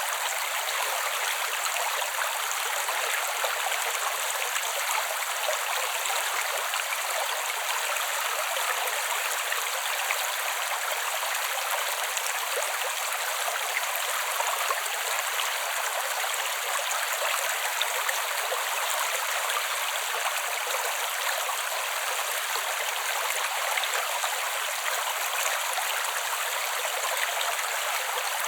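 Creek water flowing over rocks: a steady, even rush with no low rumble.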